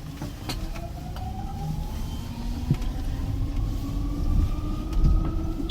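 Vehicle accelerating, heard from on board: a steady low rumble with a motor whine that rises slowly in pitch as it speeds up.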